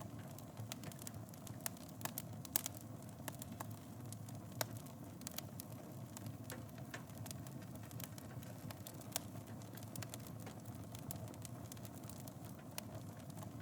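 Fire burning in a fireplace, crackling with frequent irregular sharp pops over a low steady rumble. A handful of the pops are noticeably louder.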